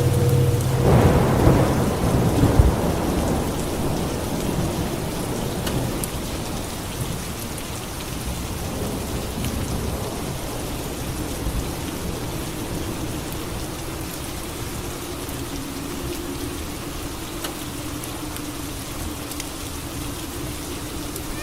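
Steady rain with a clap of thunder about a second in that rumbles for a couple of seconds and dies back into the rain.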